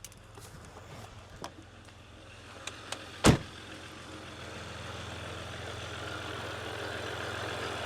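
Jeep Rubicon's 3.0 EcoDiesel V6 idling with a steady hum that grows louder in the second half. One sharp knock comes a little over three seconds in, with a few lighter clicks before it. The idle carries an oscillating noise that the mechanic traces to a failing alternator pulley that wobbles.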